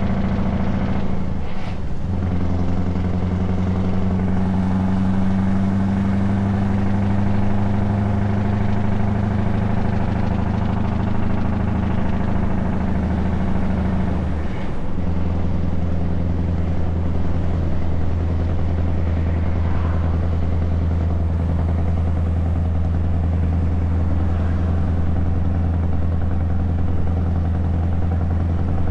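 Scania S truck's engine through open, unsilenced exhaust pipes, running steadily as the truck drives, with a low, even note. The note breaks briefly and changes pitch about two seconds in and again about halfway through.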